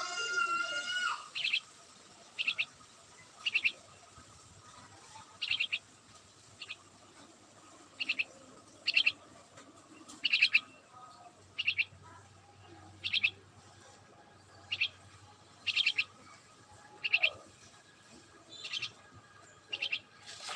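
A bird chirping repeatedly: short high chirps, often doubled, about once a second. In the first second there is a drawn-out pitched call with several harmonics.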